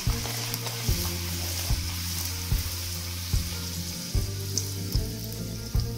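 Bhatura deep-frying in hot oil, a steady sizzle, with soft background music beating about once every 0.8 seconds underneath.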